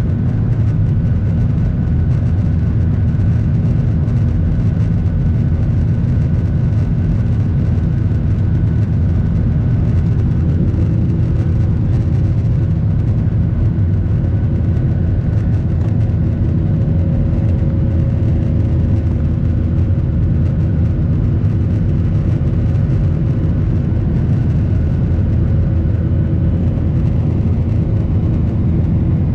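Boeing 737-800's CFM56 turbofan engines at climb power, heard inside the cabin: a steady loud rumble and drone with a few faint whining tones running through it.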